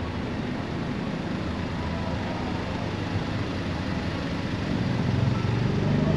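A car approaching along the street, its engine and tyre rumble growing louder near the end over steady outdoor background noise.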